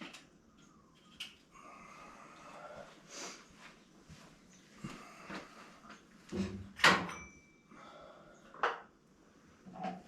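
Scattered knocks, clunks and light rattles of objects being handled, the loudest a pair of heavier clunks about six and seven seconds in.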